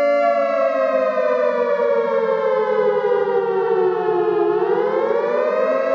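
Civil defence warning siren sounding a flood alert: a steady wailing tone that slowly falls in pitch for about four seconds, then rises quickly back to its first pitch near the end.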